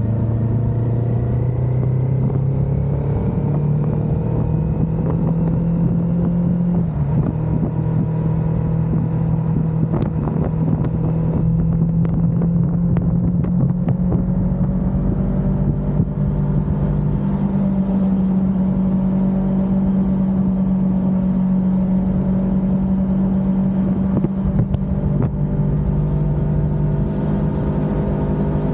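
Kawasaki Ninja 400's parallel-twin engine running under way, heard from on the bike over a steady rush of noise. Its pitch rises as it accelerates over the first few seconds and dips briefly about seven seconds in. It then holds steady and drops slightly near the end.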